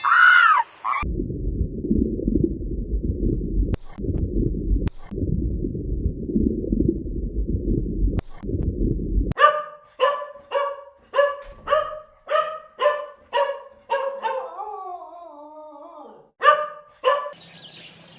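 A low rumbling noise for the first half, then a dog barking in quick short barks, about two a second, broken by a falling whine before two more barks near the end.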